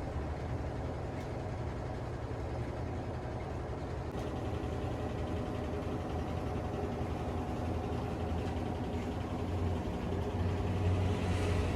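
A motor running steadily: a low hum with several steady tones, growing slightly louder near the end.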